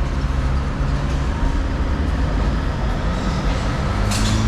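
Jeep Wrangler Unlimited 4xe crawling slowly over an off-road obstacle, heard from inside: a steady low rumble and rattle, with a short clatter about four seconds in.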